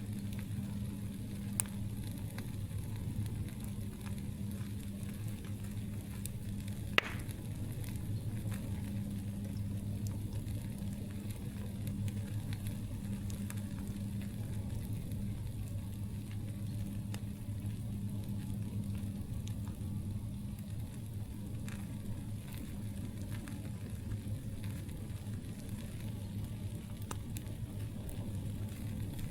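Campfire crackling and sizzling, with scattered small crackles and two sharper pops, one about a second and a half in and a louder one about seven seconds in, over a steady low hum.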